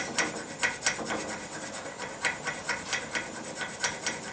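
Hand file rasping on steel, short quick strokes at about three to four a second, filing out a slot in a padlock part to widen it until it fits.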